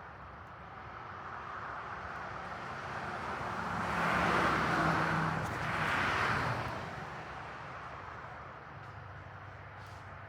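A car passing by: a rush of tyre and engine noise that swells to a peak about four to six seconds in, then fades away.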